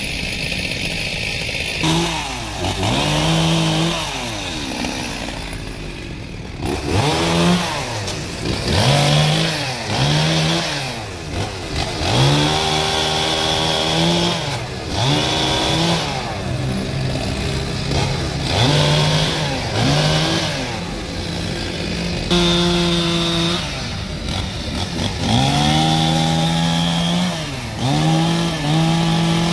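Chainsaw cutting through a tree trunk, its engine revving up and dropping back again and again.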